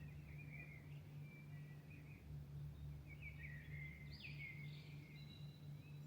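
A songbird singing faintly at dawn: one short phrase, then a longer, more rapid phrase about halfway through, over a steady low hum.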